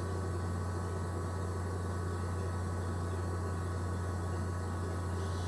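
Steady low electrical hum over faint hiss, unchanging throughout.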